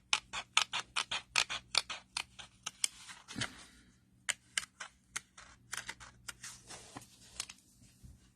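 Small fussy-cutting scissors snipping paper, a quick uneven run of sharp clicks about three or four a second, some with a brief rasp of the blades through the paper.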